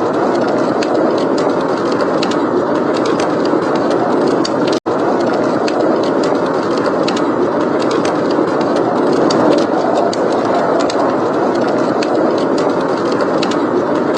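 Blizzard wind blowing steadily as a dense rush, with fireplace crackling as many small sharp pops over it. The sound cuts out for an instant about five seconds in.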